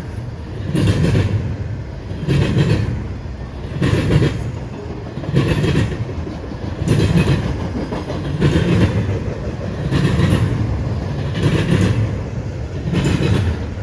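Freight train cars rolling past, their wheels clacking over the rail joints in a clatter about every one and a half seconds under a steady rumble.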